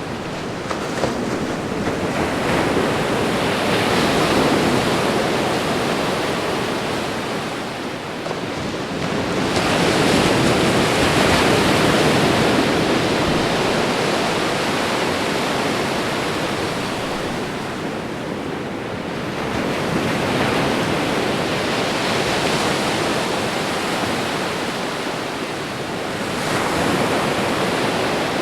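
Ocean waves breaking and washing up on a shore, a continuous rushing noise that swells and falls back with each wave, about every six to eight seconds.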